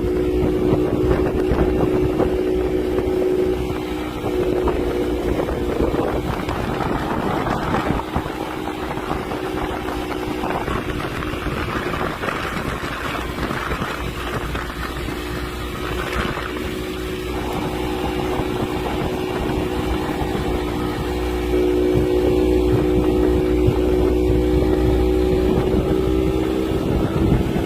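Speedboat engine towing a donut boat, running steadily, with wind buffeting the microphone. The engine's hum fades in the middle and comes back louder in the last few seconds.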